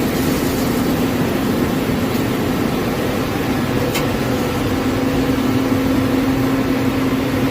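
CNC lathe running during machining: a steady machine hum with a constant low tone over dense noise.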